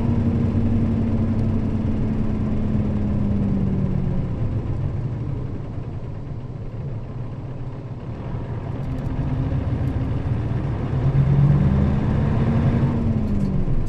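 Nissan Diesel KL-RA552RBN route bus's diesel engine running: its tone holds steady, then falls away about four seconds in, and from about nine seconds in climbs again as the bus pulls, peaking and dropping sharply near the end.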